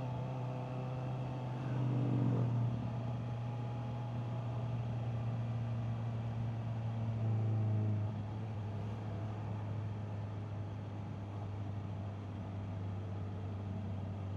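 Honda CBR650R's inline-four engine running at low, steady revs, with two short swells in revs about two seconds in and again around seven to eight seconds in, then settling to a steady, lower note.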